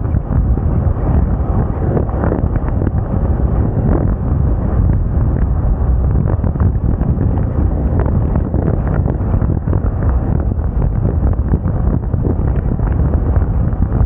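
Wind buffeting the microphone of a scooter moving at road speed: a steady, loud low rumble with no letup.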